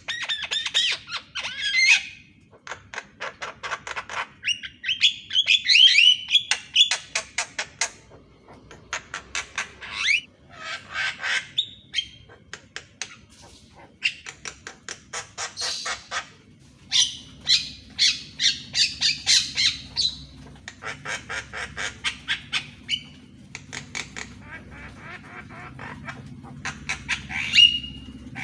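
Javan myna singing: bursts of rapid, harsh clicking chatter mixed with whistled, gliding phrases, repeated with short pauses between them.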